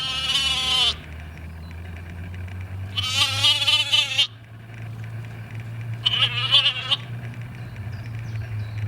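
Bleating, three times, each call quavering and lasting about a second, over a steady low hum.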